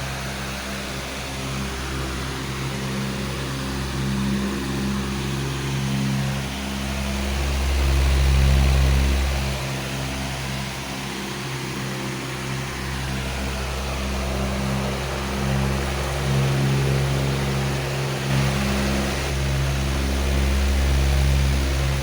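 Powerful electric fan running steadily: a low motor hum of several steady tones under an even rush of air, swelling slightly in loudness now and then.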